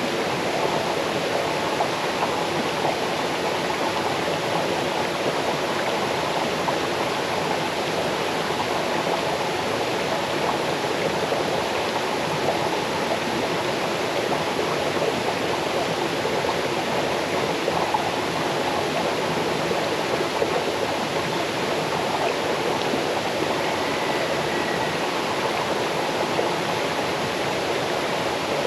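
Small waterfall cascading over stones into a forest stream: a steady rush of falling and splashing water, with no change in strength.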